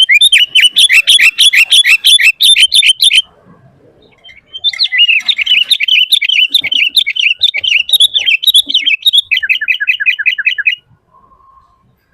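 Sooty-headed bulbul (kutilang) singing loudly in rapid chattering runs. A burst of quickly repeated notes lasts about three seconds, and after a short pause comes a longer run of about six seconds that ends in a quick series of falling notes.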